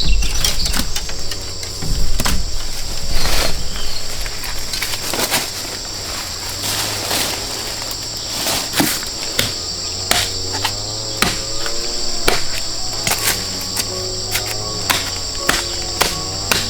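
Insects shrilling steadily, with irregular sharp knocks throughout.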